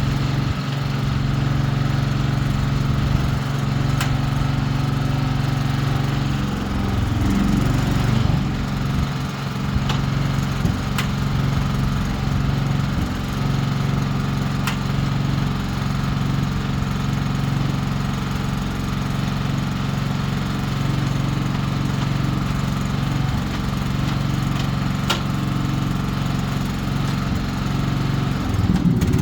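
A motor running steadily with a low, even drone, wavering briefly about seven seconds in and again near the end.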